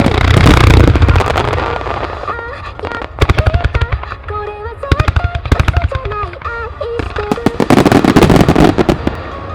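Starmine fireworks bursting in rapid salvos. There are deep booms with crackling at the start and again near the end, and quick runs of sharp cracks in between, over a song playing on loudspeakers.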